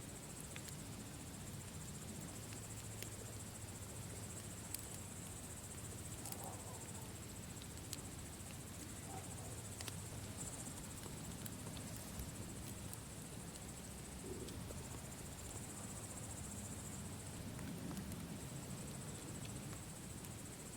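Campfire crackling, with scattered sharp pops, over a steady high chirring of insects such as crickets.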